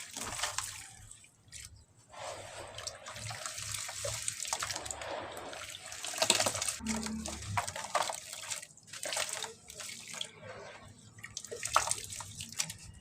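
Soft cement lumps crumbling and dropping into water, giving irregular small splashes and gritty crackles that come and go, with short pauses about two seconds in and again near nine seconds.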